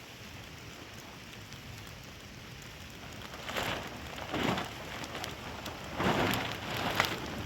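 Rain falling steadily, swelling into louder surges of noise several times in the second half.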